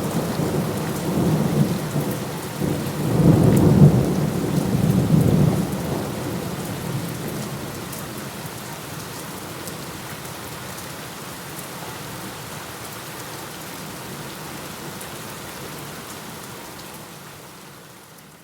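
Steady rain with a rolling thunder rumble in the first few seconds, loudest about four seconds in; then rain alone, fading out near the end.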